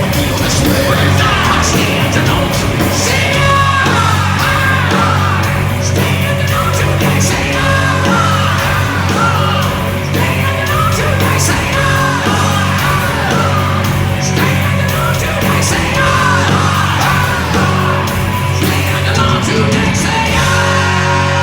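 Hard rock band playing live and loud, the lead singer yelling and singing over a heavy, steady bass and drums.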